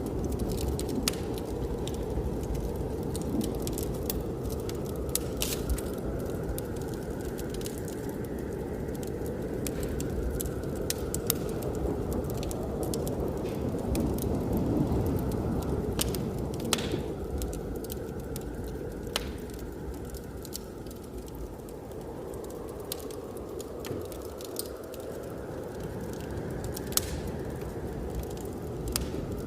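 Wood fire crackling in a fireplace, with frequent irregular sharp pops, over the steady rush of blizzard wind that slowly swells and fades.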